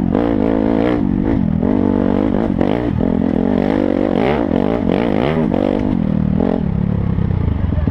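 Dirt bike engine revving up and down as the bike is ridden over rough ground, the pitch rising and falling every second or so, then settling to a steadier, lower running near the end.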